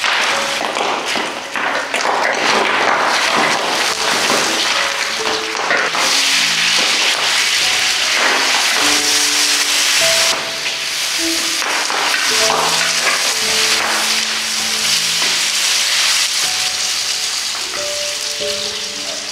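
Stir-fry sizzling hard in a hot wok, pork belly slices and then chillies, peppers and green onion being tossed with a spatula; the sizzle gets louder about six seconds in. Light background music with short plucked notes plays underneath.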